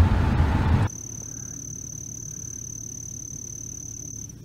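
Low hum of a car's idling engine heard inside the cabin, cut off abruptly under a second in. It is followed by a quieter outdoor background: a faint low rumble with a single steady high-pitched tone held throughout.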